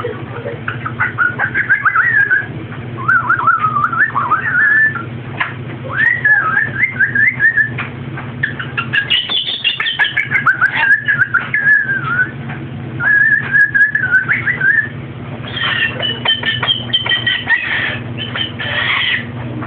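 Pet parrot whistling in repeated wavering phrases, then giving a run of harsher, fuller calls near the end.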